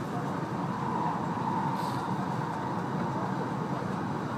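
E2-series Shinkansen running, heard from inside the passenger cabin: a steady rumble with a faint whine that swells briefly about a second in.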